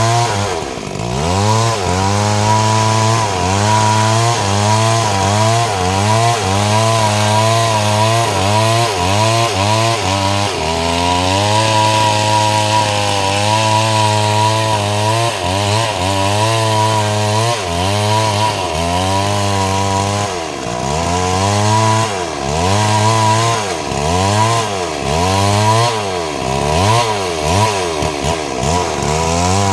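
STIHL MS 382 two-stroke chainsaw with a 30-inch bar cutting through mahogany at full throttle. Its engine pitch keeps dipping as the chain bites into the wood and rising again as it frees, over and over.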